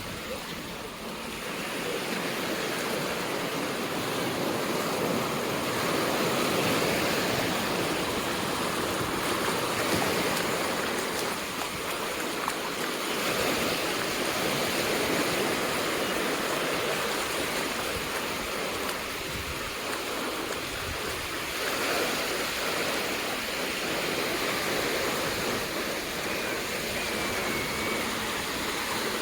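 Ocean surf washing onto the beach: a steady rushing noise that swells and eases gently.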